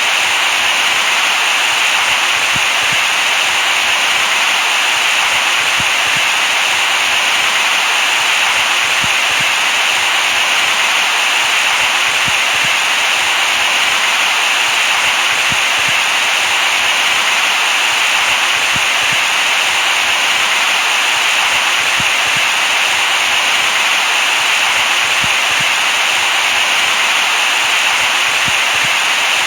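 Steady white noise for soothing a baby to sleep: an even hiss, strongest in the upper middle range, with no change in level.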